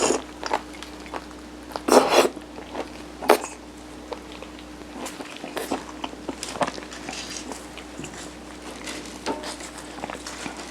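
Close-miked eating of mung-bean sirutteok (steamed layered rice cake): soft chewing, mouth clicks and smacks, with a few louder brief bites or rustles at the start, about two seconds in and a little after three seconds, over a faint steady hum.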